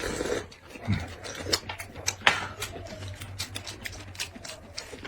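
Close-miked eating sounds: chewing and mouth smacks heard as irregular sharp clicks, several a second.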